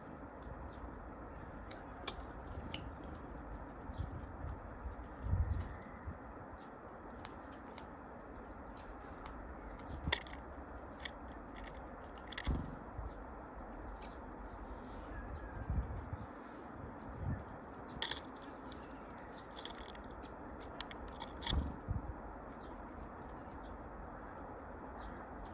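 Birds pecking and cracking feed at a feeder: irregular sharp clicks and crunches, with a few dull knocks, over a steady hiss.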